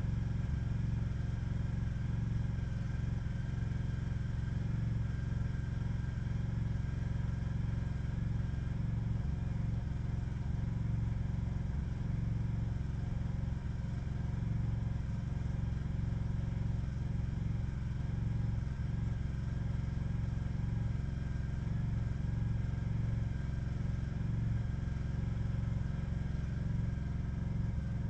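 A steady low mechanical drone, unchanged throughout, with a faint high whine above it.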